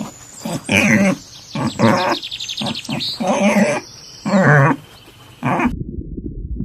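A run of short, loud animal calls, each about half a second, with a fast high trill among them in the middle. Near the end they cut off and a low rumble takes over.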